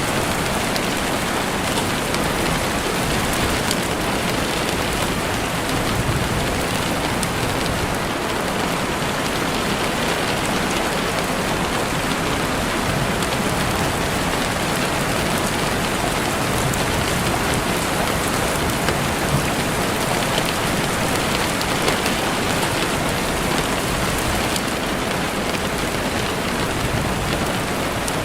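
Heavy rain falling steadily on a window: a dense, even hiss with many fine drop ticks.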